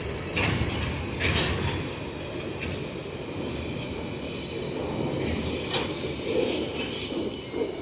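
Freight train of cement tank wagons rolling past: a steady rumble of wheels on rails, with a few sharp clacks as the wheels cross rail joints.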